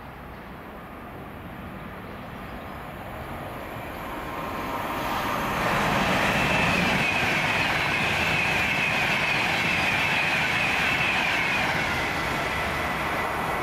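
A train approaching and running past on the main line, growing louder over a couple of seconds about five seconds in, with a high steady tone over the rolling noise while it passes, then easing off near the end.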